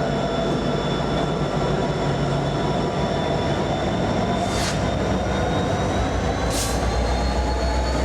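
Freight train rolling past with steel wheels squealing on the rails in several high, slowly sliding tones over a steady rumble. A deep diesel locomotive drone grows louder from about five seconds in, and there are two short hisses.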